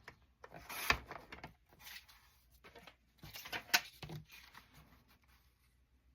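Paper being handled and shuffled: two spells of rustling with a sharp click or tap in each, about a second in and near four seconds, then quiet.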